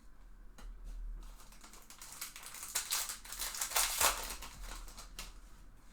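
Topps Chrome trading cards being flipped and shuffled by hand, a dense run of small clicks and rustles that grows busier and is loudest about four seconds in.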